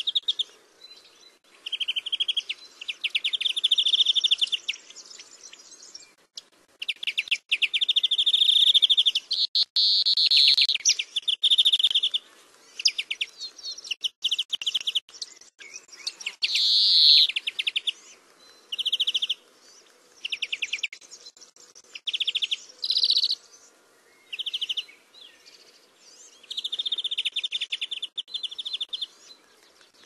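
Birdsong: high-pitched trilled phrases of rapid chirps, each lasting a second or two, repeating with short pauses.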